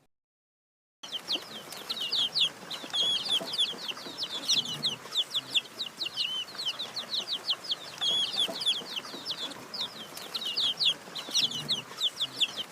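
A flock of baby chicks peeping: a dense chorus of rapid, high-pitched cheeps that starts about a second in and carries on without a break.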